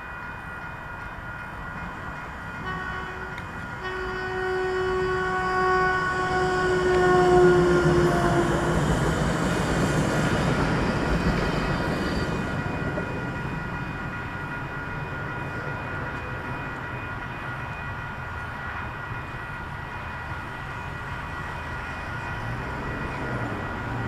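Siemens Desiro diesel multiple unit (Sprinter 4004) sounding its horn, a short blast then a long one that drops in pitch as the train passes. Its running noise swells to a peak and then fades as it moves away.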